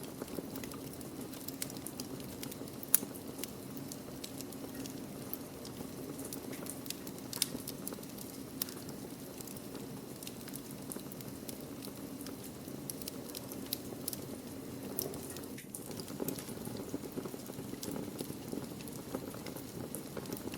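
Wood fire burning in a fireplace: a steady low rush of flames with scattered sharp crackles and pops, one louder pop about three seconds in and another about seven seconds in.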